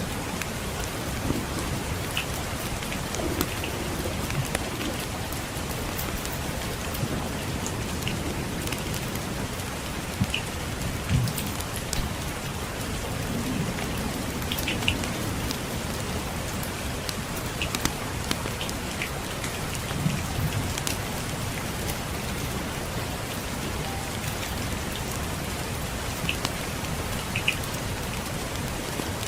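Steady rain falling, an even hiss, with scattered sharp crackles and pops from a wood fire in a fireplace.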